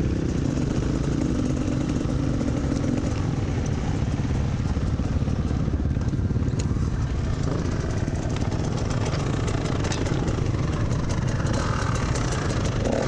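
Dirt bike engine running steadily while riding, with light ticks and clatter in the last few seconds.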